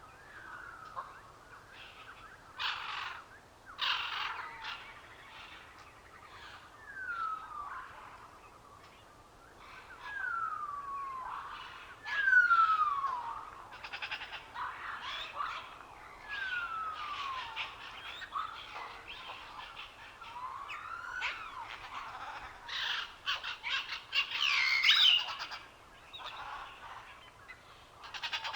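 Forest birds singing: one bird repeats a clear whistle that slides down in pitch every two or three seconds, while others add short chirps and trills between, busiest near the end.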